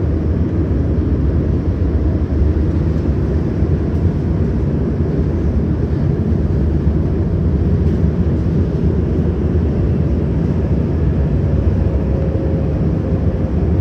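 CRRC Qingdao Sifang Type A metro train running on the track: a steady low rumble of wheels and running gear. A faint steady whine comes in about ten seconds in, as the train nears the station stop.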